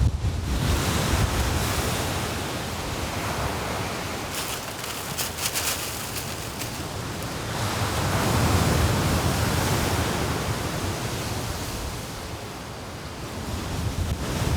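Sea surf washing onto a beach in strong wind: a steady hiss of waves that swells and eases, rising again about eight seconds in, with low wind rumble near the start and the end.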